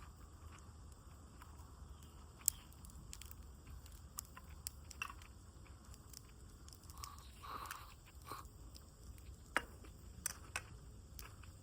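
Wood campfire crackling quietly, with irregular small crackles and a few sharper snaps.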